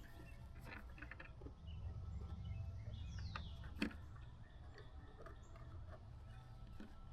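Faint scattered clicks and light taps over a low steady hum, with one short falling bird chirp about three seconds in.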